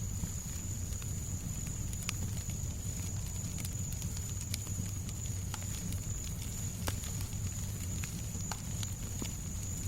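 Fireplace crackling: scattered sharp pops and snaps over a steady low rumble, with a thin steady high tone.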